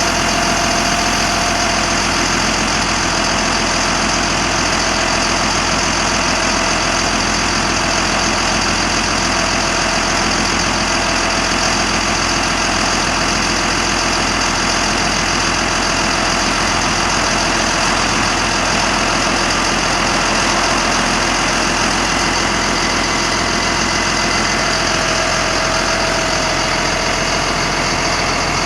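Caterpillar diesel engine of a 1991 GMC Topkick bucket truck idling steadily, with a faint whine that comes and goes.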